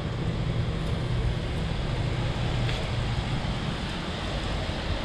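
Steady low rumble of vehicle noise with a wind-like rush.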